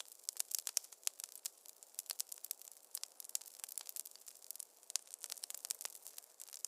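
Wood fire crackling in a fireplace: dense, irregular snaps and pops over a faint hiss.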